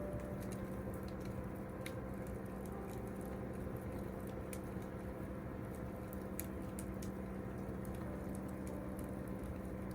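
Wood fire crackling, with small snaps and pops scattered irregularly over a steady low hum.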